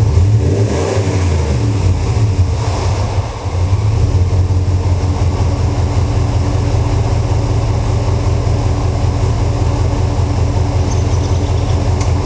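Jeep Commander 4.7-litre V8 exhaust through a Flowmaster Delta 50 Series muffler, revving in the first three seconds and then idling steadily with a deep rumble.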